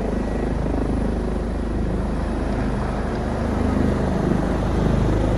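Rescue helicopter's rotor and turbine engine running, a steady loud noise with a fast, even rotor chop in the low end.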